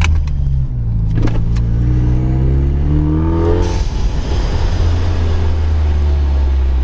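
EcoBoost Mustang's 2.3-litre turbocharged four-cylinder, with a catless downpipe and muffler delete, accelerating: its exhaust note rises in pitch for a couple of seconds, breaks off in a short rush of hiss about three and a half seconds in, then settles into a steady lower drone.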